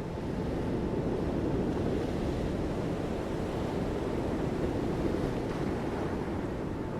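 Sea surf washing in steadily, with a little wind noise, the sound swelling slightly in the first second.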